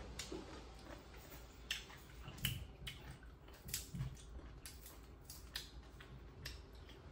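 Quiet eating at a table: chewing and wet mouth sounds of watermelon and boiled pork offal being eaten, with a few short, sharp clicks and smacks, most of them between about one and a half and four seconds in.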